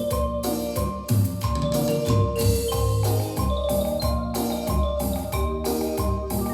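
Yamaha DX7 FM synthesizer playing a rhythmic passage in a mallet-like marimba tone over a bass line, with regular percussive hits.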